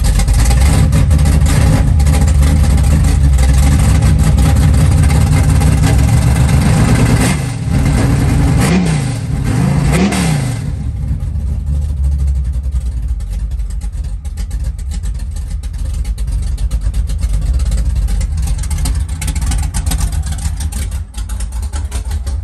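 Car engine running loud through open exhaust cutouts, held at high revs for about seven seconds, then revved and dropped twice before settling to a lower, steady idle about halfway through.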